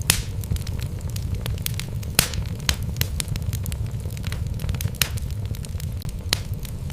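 Wood logs burning in a fireplace: a steady low rumble of flame with frequent sharp crackles and pops, the loudest just after the start and about two seconds in.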